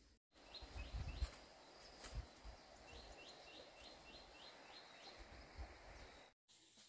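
A bird calling in quick runs of short chirps, a few at a time and then a longer run of about seven, over a faint low rumble with a few dull thumps.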